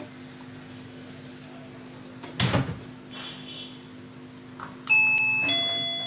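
Wireless calling bell sounding a two-note electronic chime: the first note starts suddenly near the end, the second follows about half a second later and fades slowly. Before it there is a single knock from handling, over a steady low hum.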